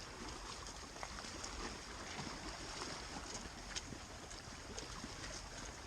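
Steady outdoor noise of wind and lake water, with a few faint scattered ticks.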